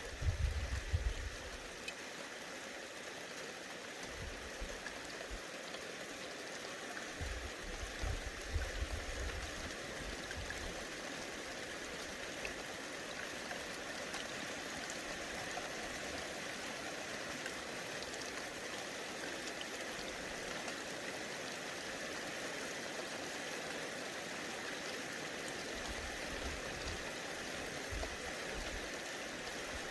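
Steady, even outdoor hiss, with low rumbles of wind buffeting the microphone at the start, around eight seconds in, and again near the end.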